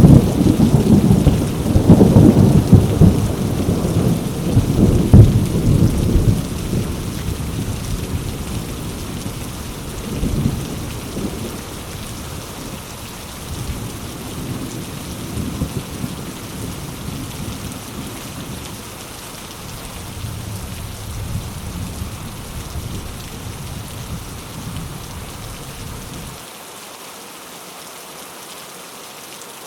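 Heavy rain pattering on mango leaves, with a long rumble of thunder at the start that dies away over the first ten seconds or so, leaving a steady rain hiss. Near the end the deep part of the sound drops out suddenly.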